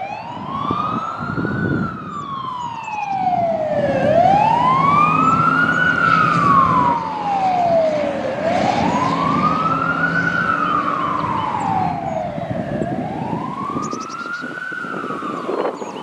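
Fire engine siren on wail, its pitch rising and falling slowly about four times, each cycle taking roughly four seconds.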